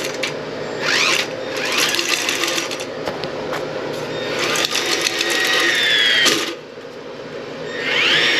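Milwaukee M12 auto-feed toilet auger running in repeated bursts, each start a rising motor whine, as its spinning cable feeds down the toilet drain toward a main-line clog. The motor's pitch sags before it stops about six seconds in, and it starts again near the end.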